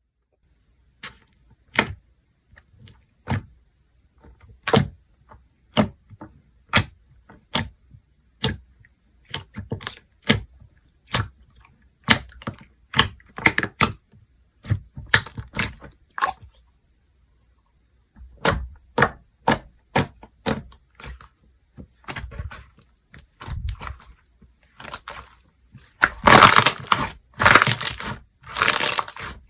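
Slime being pressed and played with in the hands, giving sharp popping clicks about once a second. In the last few seconds these give way to a dense, loud crackling.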